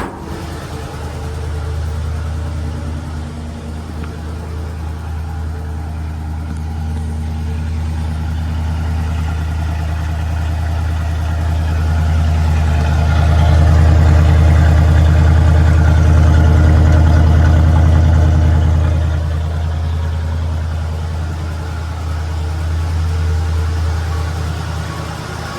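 1970 Ford F100's engine running steadily at a fast idle held up after a cold start. The engine and exhaust sound grows louder for several seconds about halfway through, then eases back.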